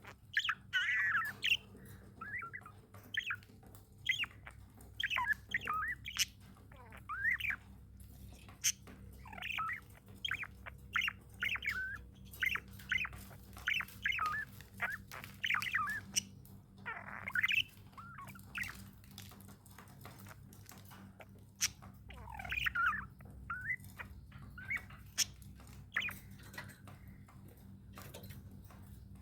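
Budgerigars chirping and chattering: quick runs of short squawky, warbling calls with gaps between, thinning out past the middle and toward the end. Scattered sharp clicks and a steady low hum lie underneath.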